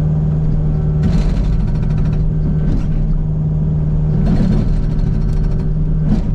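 Kubota U55 mini excavator's diesel engine running steadily, with two spells of rapid hammering about a second long each from an Agrotk 680 hydraulic breaker working into solid sandstone, and a couple of single sharp hits between them. Slow going: the hammer hardly gets down into the hard rock.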